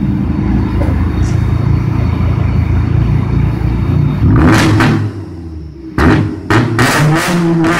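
Volkswagen TDI diesel engine held at high revs on a two-step launch limiter, then let go about four seconds in, with several sharp bangs and the revs dropping near the end.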